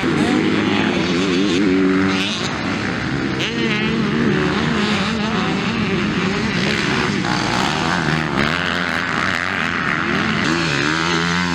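Several motocross bikes racing, their engines revving up and falling back again and again, with the pitches of different bikes overlapping.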